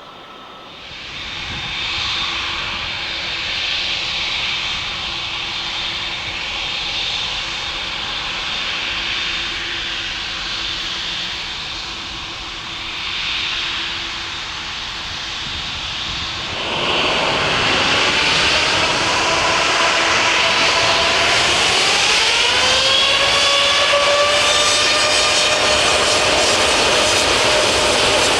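Jet airliner engines running with a steady rush. About 17 s in the sound gets louder, and a few seconds later the engine whine climbs in pitch and holds at a higher steady tone as the engines spool up to more thrust.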